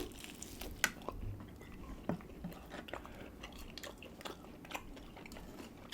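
People chewing food close to the microphone, with scattered short, faint clicks and smacks.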